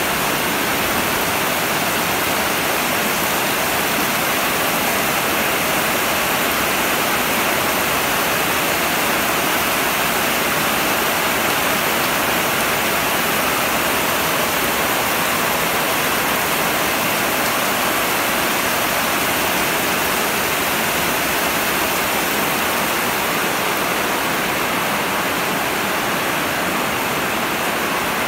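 Heavy rain falling steadily, a dense even hiss of downpour with no letup.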